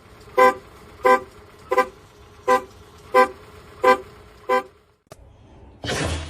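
A horn sounding in eight short, evenly spaced toots, about two-thirds of a second apart.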